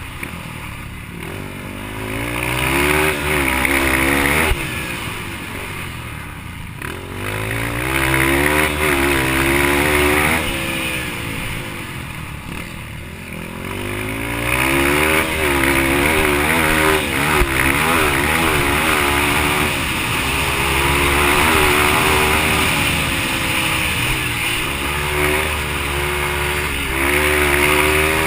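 Yamaha TTR-230 single-cylinder four-stroke dirt bike engine racing under hard throttle, its pitch climbing and dropping back again and again through gear changes and corners.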